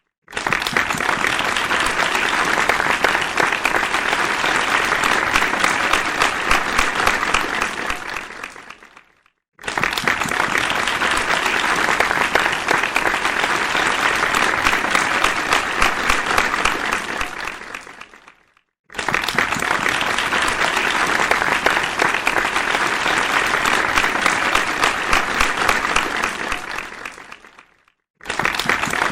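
Crowd applause in three rounds of about nine seconds each, every round fading out into a short silence before the next begins: a repeating applause sound effect.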